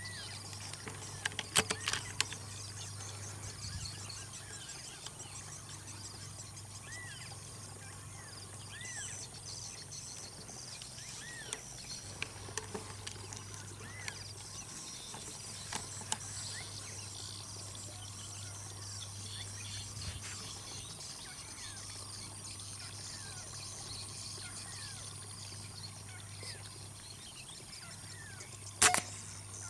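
Rice-field ambience of birds and insects: a dense high chorus with many short, arched bird calls repeating every second or so, over a low steady hum. A few faint clicks early on and one sharp, loud click near the end.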